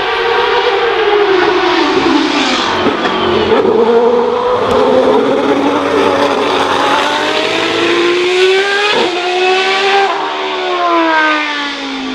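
Historic racing cars at speed, more than one engine heard at once, their notes climbing as they accelerate and dropping in pitch as they pass by and draw away near the end.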